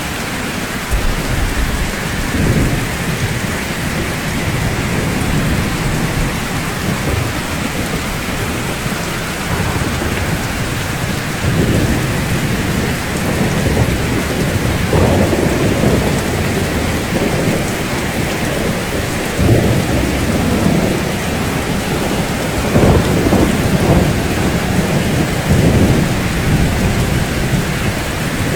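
Steady heavy rainfall, with low rolling rumbles of thunder that swell repeatedly and are strongest in the second half.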